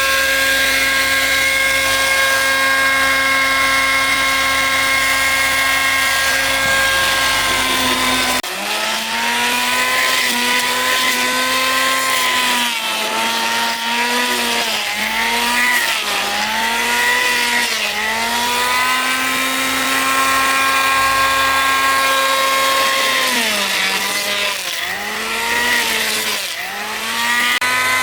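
Electric woodworking power tool, its motor running with a steady high whine. From about a third of the way in, the pitch sags and recovers again and again as the tool bites into the wood under load.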